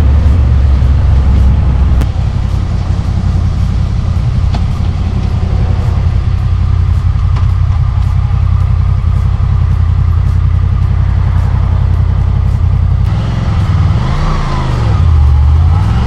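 2005 Honda VFR800 Interceptor's V4 engine running under way at a steady cruise. Near the end the engine note swings down and up again as the rider eases off and gets back on the throttle.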